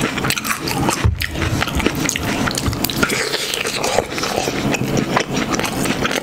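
Close-miked eating sounds: a person biting into and chewing a raw green pepper, with crunching and many wet smacking clicks.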